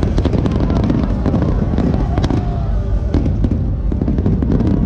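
Aerial fireworks display: many shells bursting in quick succession, a dense string of sharp bangs and crackles over a continuous low rumble.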